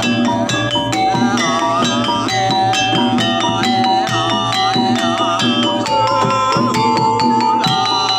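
Jaranan gamelan music: mallet-struck metallophones and drums in a steady repeating rhythm, with a wavering held melody above them.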